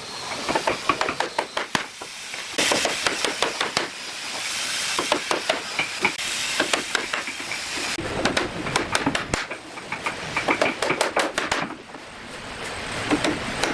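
Hand-tool work on wood: quick, rapid tapping and scraping strokes, with a hissing noise between the bursts of strokes.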